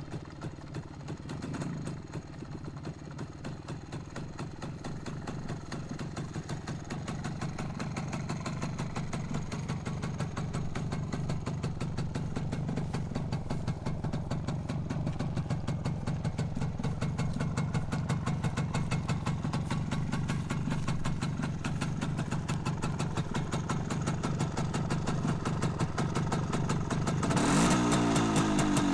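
MZ ETZ 150's single-cylinder two-stroke engine idling just after starting, with an even putter that slowly grows louder. About a second and a half before the end it is revved, louder and rising in pitch.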